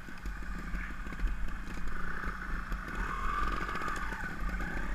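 Trials motorcycle engine running at low revs, with a higher-pitched engine note that strengthens about three seconds in.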